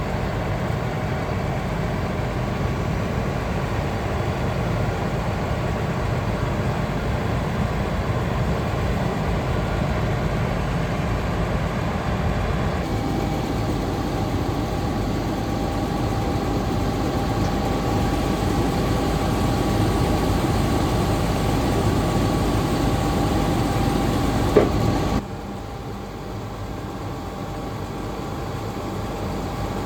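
Heavy truck's Cummins L9 diesel engine running steadily, with a faint steady whine over it. A short click comes near the end, and the level then drops suddenly.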